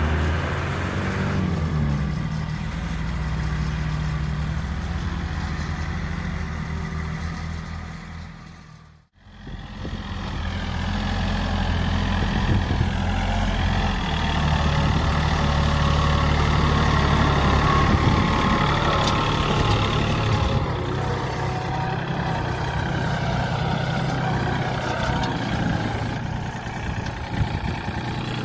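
A 40 hp Yanmar tractor's diesel engine running steadily while pulling a share plough. The sound fades away briefly about nine seconds in, then comes back.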